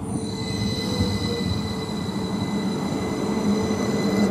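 A Northern Class 333 electric multiple unit running along the platform, giving a steady high-pitched squeal of several pitches over the rumble of the train; the squeal cuts off suddenly. The low rumble of a second train arriving on the other line grows near the end.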